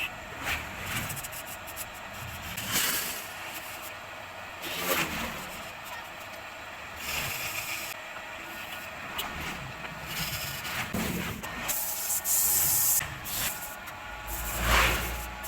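Wood being scraped and sanded by hand tools, in irregular rasping strokes over a steady mechanical hum, with a louder burst of hiss about three-quarters of the way through.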